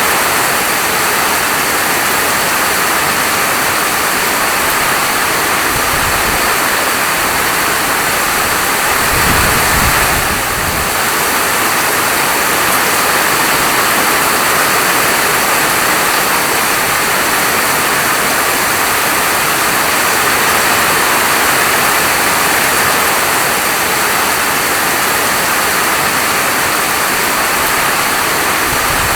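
Steady heavy rainfall, an even unbroken hiss, with a brief deeper swell about nine seconds in.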